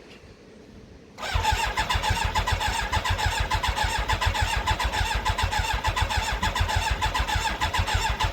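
Yamaha YZF1000R Thunderace inline-four being turned over on its electric starter for about seven seconds, starting about a second in and stopping abruptly, with an even, rapid cranking rhythm and no firing. It won't catch because the fuel petcock is off and no petrol is reaching the freshly rebuilt carburettors.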